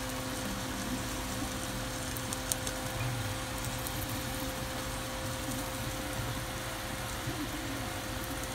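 Egg omelet with vegetables sizzling steadily in a frying pan, over a faint steady hum.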